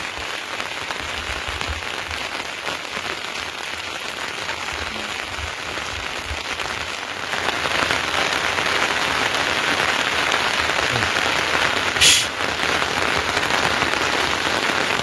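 Steady rain falling, a little heavier from about halfway through. About twelve seconds in comes one brief sharp hiss, the loudest sound.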